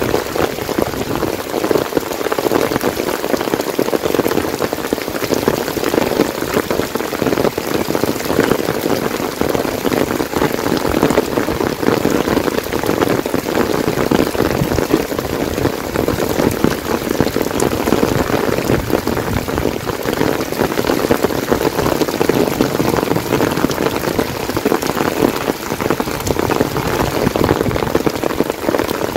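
Heavy monsoon rain falling: a steady, dense patter of countless drops.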